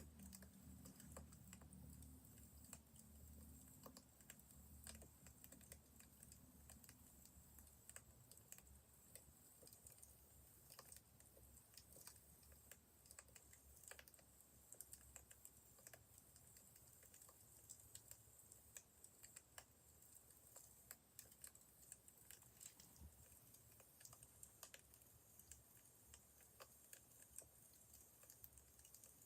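Faint crackling of a wood fire: small irregular pops and ticks over a low rumble.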